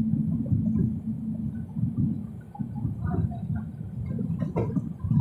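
Wind buffeting the microphone over the low rumble of a passenger train running at speed, heard from the open door of a coach. A few sharp clacks come near the end.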